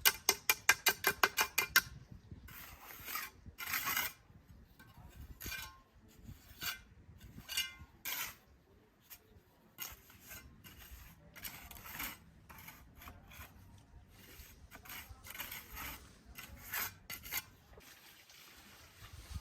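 A hand tool scraping and rubbing on a hard, gritty surface in irregular strokes, after a quick run of sharp taps in the first two seconds.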